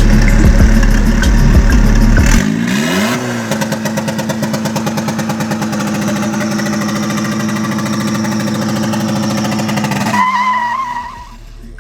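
A VW Gol's turbocharged, carbureted 1.8 engine running. About two and a half seconds in, its note rises and then holds steady with an even pulse. Near the end it drops away with a brief whine.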